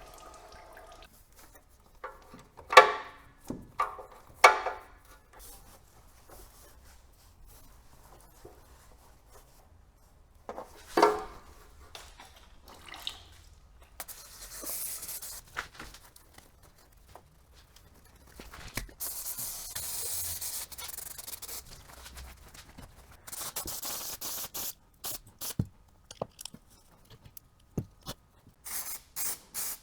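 Workshop tool sounds: a few sharp metallic clanks with a short ring, then several long hissing sprays, ending in a quick run of short hissing bursts.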